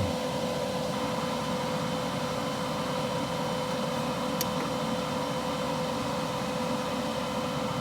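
WeldPro TIG 200 inverter welder switched on and idling, its cooling fan running with a steady whir and a constant hum tone. A single faint click about halfway through.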